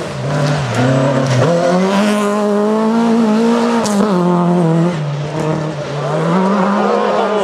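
Rally car engine running hard on a gravel stage: low at first, its pitch climbs about a second and a half in and holds high, drops about five seconds in, then rises again.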